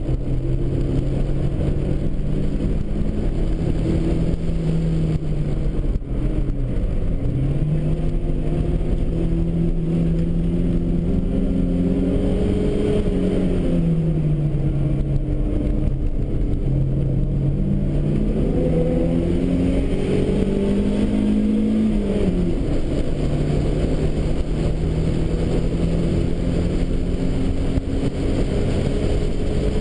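Turbocharged Datsun Bluebird race car's engine at racing speed, heard from inside the cabin. Its note climbs under acceleration and falls away about four times as the revs drop off for corners and gear changes.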